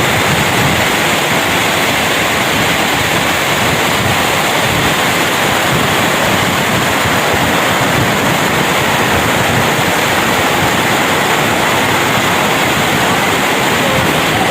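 Steady, loud rush of heavy rain falling, an even unbroken hiss with no single drops or breaks standing out.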